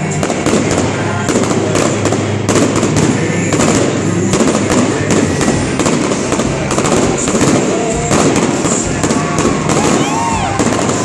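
Fireworks display: a dense run of crackles and bangs from bursting shells and comets. Near the end come a few whistles that rise and fall in pitch.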